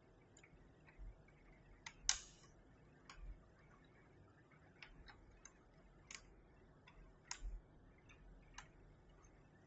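Faint, sparse plastic clicks and taps, about ten at irregular spacing, from keycaps being handled and pressed onto a Keychron V6 Max mechanical keyboard. The sharpest click comes about two seconds in.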